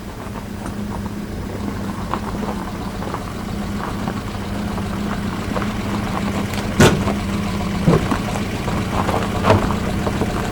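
A car engine running steadily with a low hum, with scattered light ticks and a few sharper knocks in the second half.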